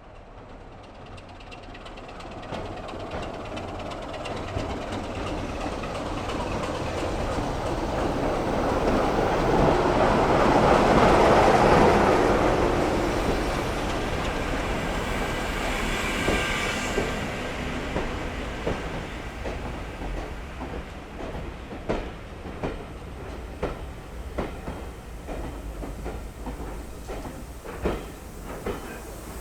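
A train on a heritage line approaching and passing, growing louder to a peak about eleven seconds in and then easing. In the second half the wheels click over the rail joints as the carriages roll by.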